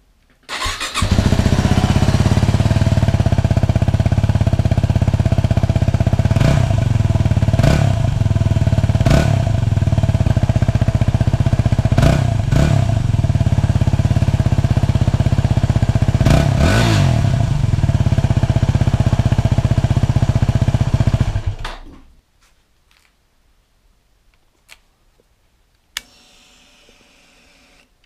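Motorcycle engine with a newly fitted aftermarket exhaust starting up and idling, with about six short throttle blips spread through the run, then switched off about 21 seconds in. A faint steady sound follows near the end.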